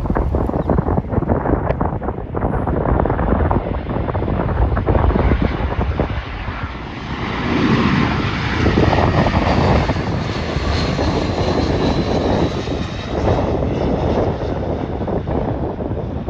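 Arriving jet airliner passing close on landing approach: engine noise that swells to its loudest around the middle, with a faint high whine, and wind buffeting the microphone throughout.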